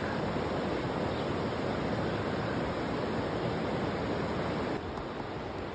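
Steady rushing noise of the Green River's flowing water, even and unbroken, dropping slightly in level near the end.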